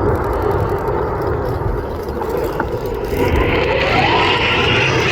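Eurofighter Typhoon's two Eurojet EJ200 turbofans on a fast final pass: a loud, steady jet rumble, with a higher hiss and a rising whine building from about three seconds in.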